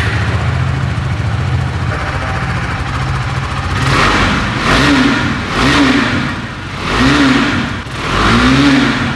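KTM RC 390's 373 cc single-cylinder four-stroke engine idling, then revved with four throttle blips in the second half, each rising and falling back.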